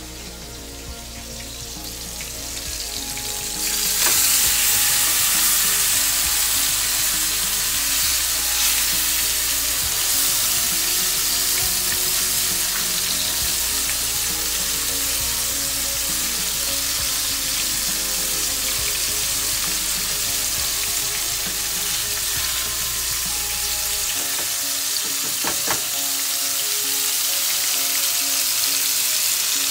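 Salmon fillets and chicken breasts sizzling as they sear in hot oil in a frying pan. The sizzle swells over the first few seconds, then holds steady.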